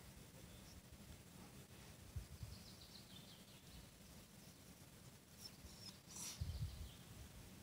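Near-silent outdoor ambience with faint, distant birds chirping, and a brief low rumble about six seconds in.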